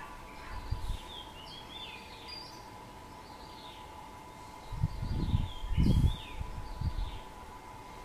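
Small birds chirping again and again in quick, high, downward-sliding notes. From about five seconds in, a low rumble of wind on the microphone lasts for a couple of seconds and is the loudest sound.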